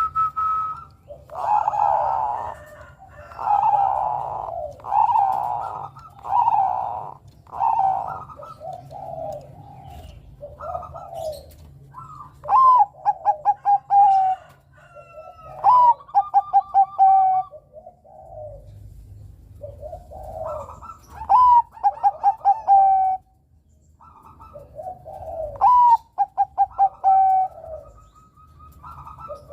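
Zebra dove (Bangkok-type perkutut) cooing. First comes a run of soft coos about once a second, then four song phrases, each opening on a high note and running into a quick stuttering string of short coos that settles on a lower note.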